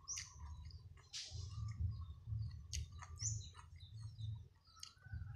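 A small bird gives a short, high chirp that falls in pitch, twice about three seconds apart, over close-up chewing with soft mouth clicks and smacks.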